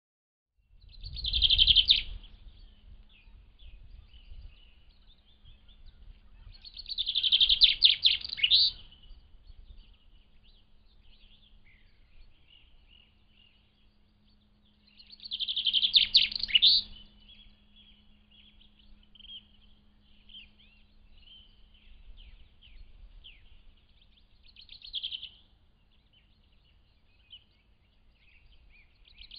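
A songbird singing: three loud phrases of about a second and a half each, roughly seven to eight seconds apart, with softer chirps in between.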